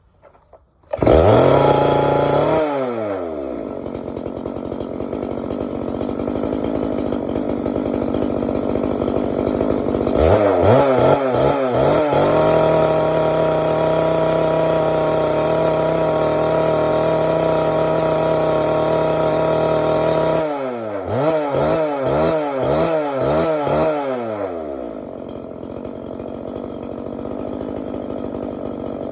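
Yamabiko CSG-673SL two-stroke engine cutter starting about a second in, flaring up and then dropping to idle. About ten seconds in it is revved up and held at high speed, then blipped up and down several times before settling back to idle.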